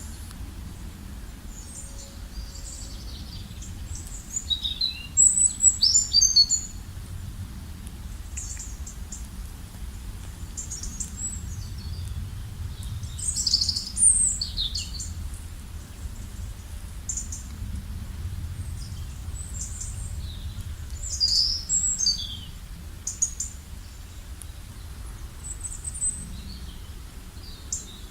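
Wild birds chirping and calling in short high bursts, with clusters of calls about five, thirteen and twenty-one seconds in, over a steady low background rumble.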